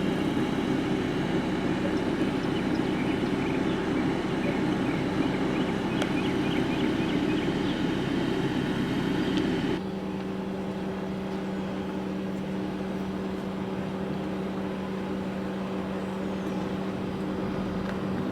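Steady car noise heard from inside the cabin. About ten seconds in it drops abruptly to a quieter, even hum with a few steady tones.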